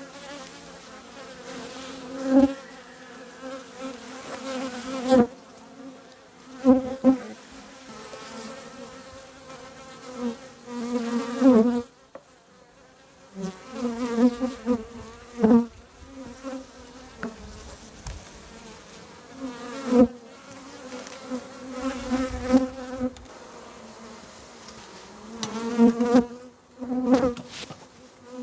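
Honey bees buzzing around an open hive, the hum swelling and fading as bees fly close past, with a few sharp clicks in between.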